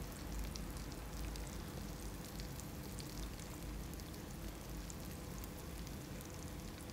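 Fish roe sacs and sliced onions sizzling steadily in oil in a frying pan, with scattered small crackles.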